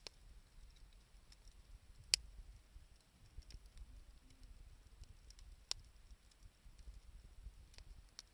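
Wood fire of scrap timber and 2×4 lumber crackling faintly, with scattered small clicks and two sharper pops, about two seconds in and nearly six seconds in.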